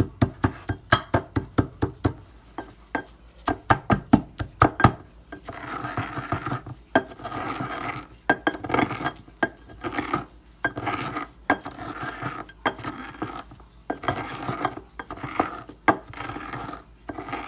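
Dry eggshells being crushed and ground in a mortar with a pestle: a quick run of sharp taps and cracks for the first few seconds, then slower grinding strokes, the pestle rasping around the bowl about once a second.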